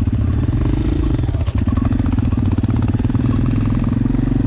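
Shineray XY250GY-6B enduro motorcycle's single-cylinder four-stroke engine running steadily, with one sharp knock about a second and a half in.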